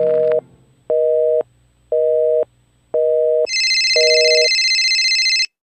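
Telephone busy signal: a two-note tone beeping five times, about once a second. Over the last beep a shrill, steady electronic tone comes in and holds for about two seconds before cutting off suddenly.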